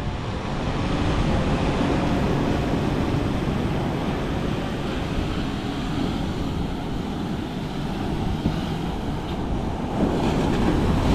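Steady rumble of wind buffeting the microphone over surf breaking on the beach.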